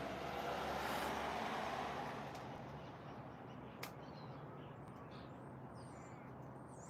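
A vehicle passing on a nearby road, its rushing noise swelling and then fading over the first few seconds, with faint high bird chirps and a single sharp click about four seconds in.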